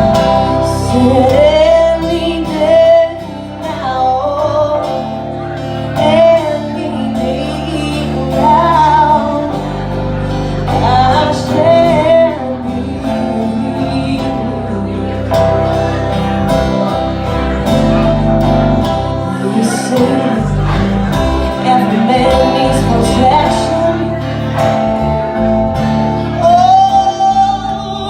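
Song performance: singing, with the sung notes wavering in vibrato, over a steady acoustic guitar accompaniment.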